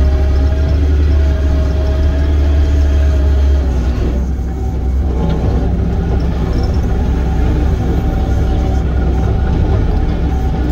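Diesel engine of heavy earthmoving equipment running steadily: a loud low drone with a wavering whine above it. The sound dips and shifts briefly about four seconds in, then settles again.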